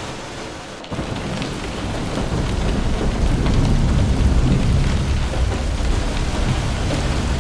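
Rain falling steadily, with a heavy low rumble under the patter. The sound dips at the start and cuts back in abruptly about a second in.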